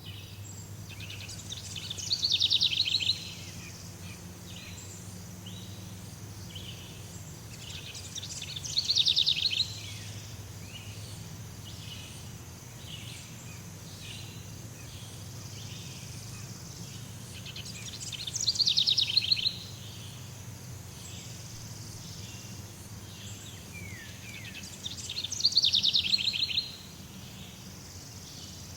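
Jungle ambience: a constant chatter of insects and small birds, with a steady low hum underneath. A loud rapid trill, about a second long and swelling as it goes, is repeated four times, every six to eight seconds.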